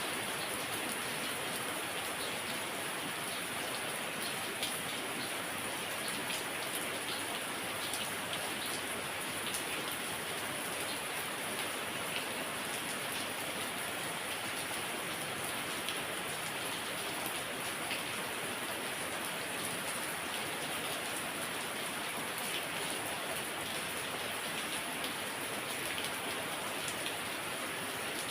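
Heavy rain falling steadily: an even hiss of downpour with many small, scattered drop ticks.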